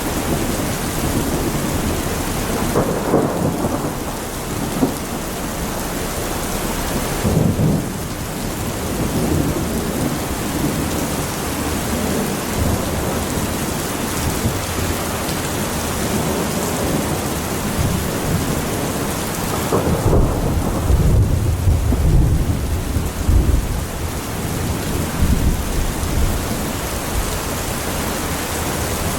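Heavy rainstorm: steady rain hiss with rolls of thunder rumbling through it, a short one about three seconds in, another near eight seconds, and a longer, heavier roll about two-thirds of the way through.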